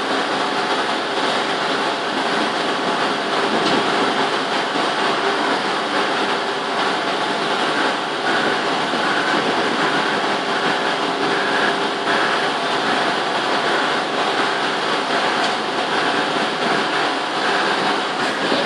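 Steady machinery running noise, unchanging throughout, with faint steady hum-like tones.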